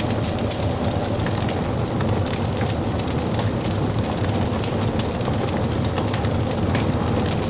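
Wood fire burning: a steady low rush of flames under frequent small crackles and pops of the wood.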